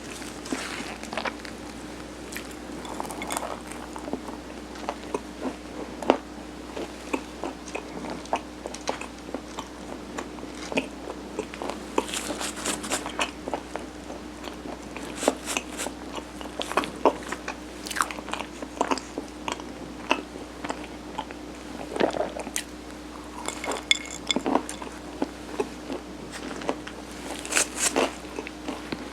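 Close-miked chewing and biting of mung-bean-coated steamed rice cake (sirutteok): irregular sticky mouth clicks and smacks with some crumbly crunch, over a faint steady hum.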